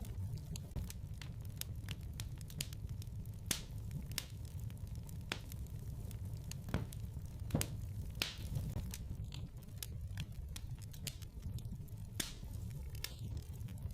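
Wood fire burning in a fireplace: a steady low rumble of flames with irregular crackles and sharp pops.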